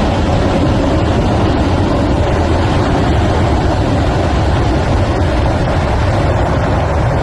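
Debris flow of water, mud and boulders surging down a channel: a loud, steady rushing rumble.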